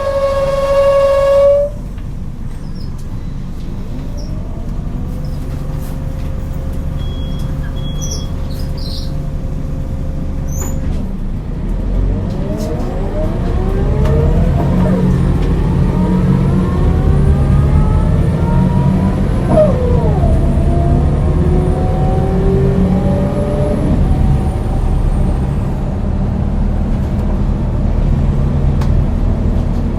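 Scania DC9 9-litre six-cylinder diesel bus engine running low and steady. About halfway through it pulls away, with a whine rising in pitch and dropping twice as the ZF four-speed automatic gearbox shifts up, then settles into a steady cruise. A steady beep tone sounds briefly at the start.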